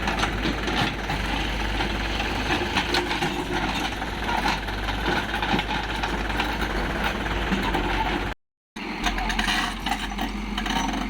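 Diesel engine running steadily, with a short gap of silence a little after eight seconds in.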